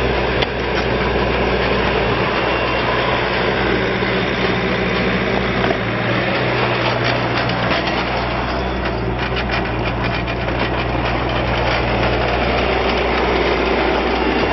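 Bobcat T595 compact track loader's diesel engine running steadily, its note shifting slightly a few times, with a run of short rattles or clanks in the middle.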